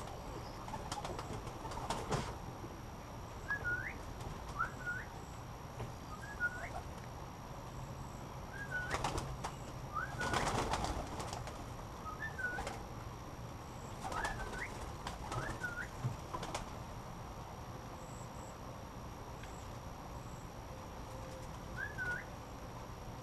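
Pigeons flapping their wings in several bursts, the longest about ten seconds in, with short high peeping calls here and there.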